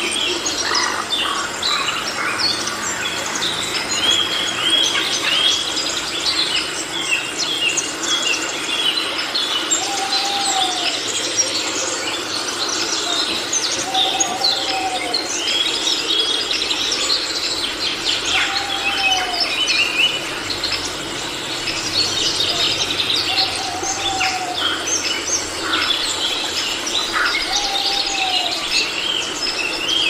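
Rainforest birds chirping and calling, with many short overlapping calls throughout. From about ten seconds in, a lower single rising-and-falling call repeats about every four to five seconds.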